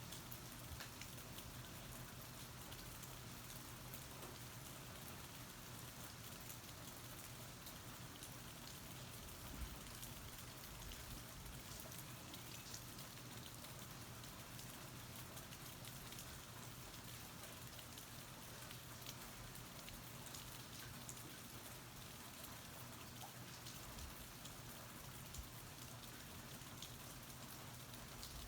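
Steady rain falling, a soft even hiss with scattered individual drop ticks, heard from under a porch roof.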